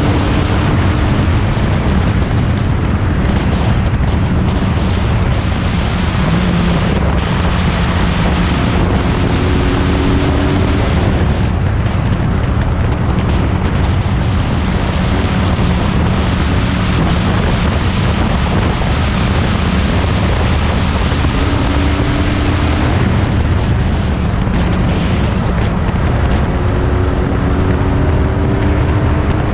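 Huffaker Genie Mk13 racing car's engine running under heavy wind buffeting on the microphone, its pitch rising several times as it accelerates.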